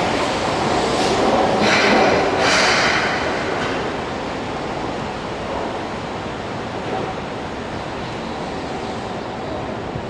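Keihan electric train moving along the platform, its steady rumble slowly fading, with two short hissing bursts about two seconds in.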